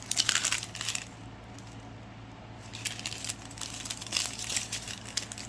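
Small plastic bags of diamond-painting drills being handled: the resin beads rattle and click and the bags crinkle, in two spells with a quieter pause between.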